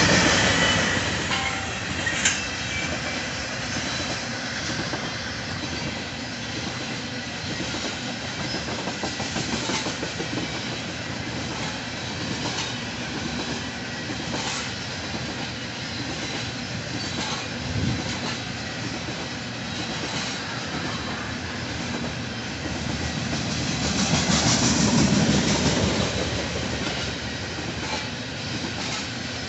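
Loaded freight gondola cars rolling past: steady clatter of steel wheels over the rail joints, with faint regular clicks. It grows louder for a couple of seconds near the end.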